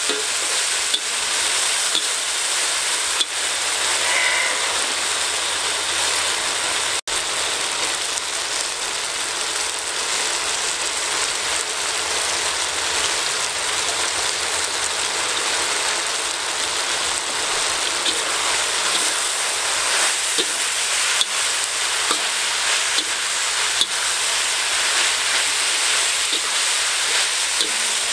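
Beef and winged beans sizzling steadily in a hot wok as they are stir-fried, with a few short knocks of the spatula against the pan.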